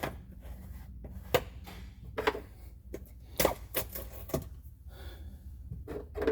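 Irregular clicks and knocks of plastic quart bottles of motor oil being handled and tipped as new oil is poured into a side-by-side's engine, over a steady low hum.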